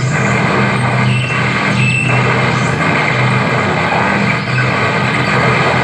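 Harsh noise wall performance: a loud, unbroken wall of distorted static spread across the whole range, with a low droning hum underneath.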